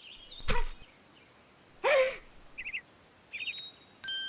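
Cartoon sound effects over birdsong. Bird chirps run through, with a short loud noise about half a second in, a louder sound falling in pitch near two seconds, and a ringing metallic ding near the end.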